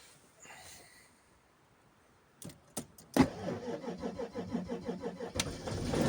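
Cold start of an Audi A6 2.7 TDI V6 diesel at −31 °C, its coolant preheated: a few clicks, then about two seconds of evenly pulsing starter cranking from about three seconds in, with the engine catching and running louder near the end.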